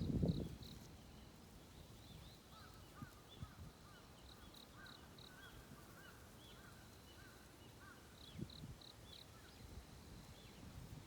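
Faint dawn chorus of birds: one bird repeats a short high note in quick runs of three or four, while another chirps lower and busier. A brief low, louder sound comes right at the start.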